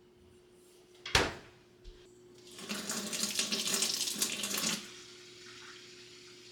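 A sharp knock, then water running from a tap for about two seconds before it is shut off.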